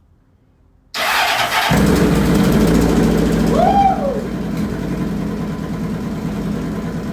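Motorcycle engine cranked over and catching after under a second. It runs louder for about two seconds, then settles to a steady idle: its first start after the carburetors were cleaned.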